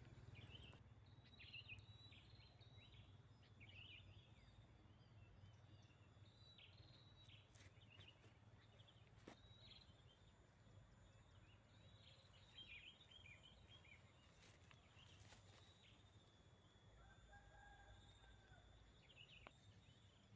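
Near silence: faint outdoor ambience with scattered high, short bird chirps throughout over a low steady hum.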